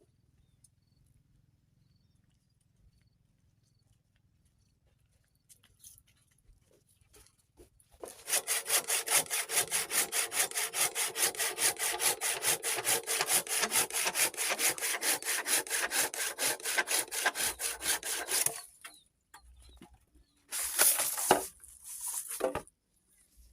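Hand saw cutting through wood in quick, even back-and-forth strokes. It starts about eight seconds in, runs for about ten seconds and stops suddenly. Two short scraping bursts follow near the end.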